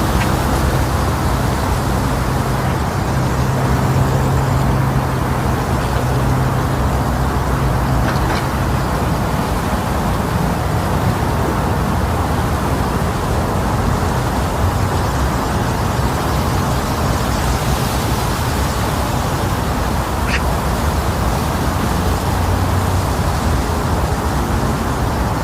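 Strong wind blowing across the microphone, a steady loud rumbling rush, with a few faint short bird calls about six, eight and twenty seconds in.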